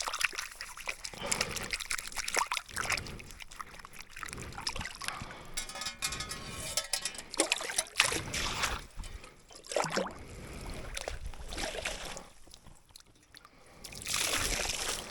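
Water splashing and trickling as a potato is washed by hand, in irregular bursts.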